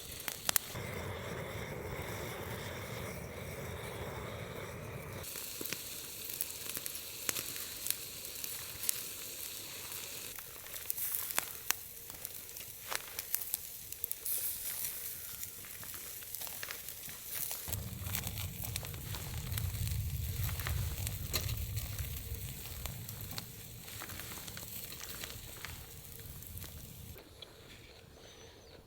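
Food sizzling and frying in a pan, with scattered pops and crackles; the sound shifts abruptly a few times where shots change.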